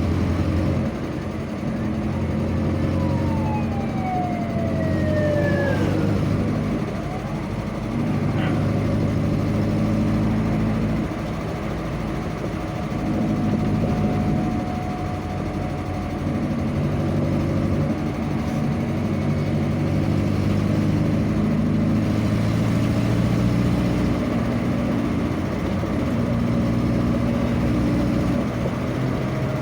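A vehicle's engine running under way, its pitch stepping up and down as it is driven, with road noise. A few seconds in, a tone glides steadily downward.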